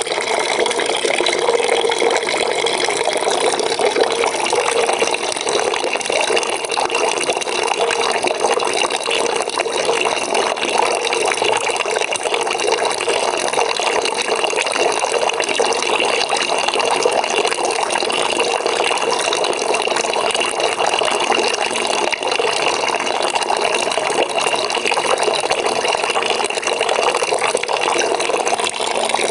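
Water from a tap running steadily into a bucket, a continuous pouring and splashing.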